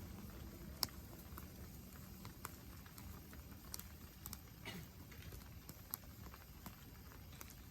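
Wood campfire crackling: scattered sharp pops at irregular intervals, the loudest about a second in, over a faint low steady rumble.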